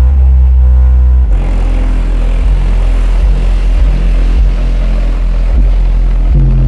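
A bass-heavy two-step beat played loud through a truck's newly installed car stereo and subwoofers. Deep bass notes dominate and change pitch every second or so, with little treble, as the highs are not yet working.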